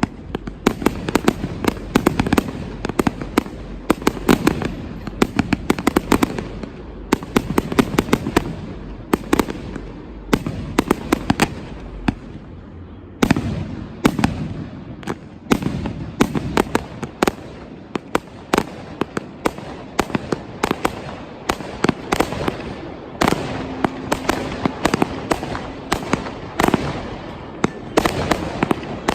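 Fireworks display: a rapid, continuous run of loud aerial shell bursts and crackling, many bangs a second with a rumbling echo beneath.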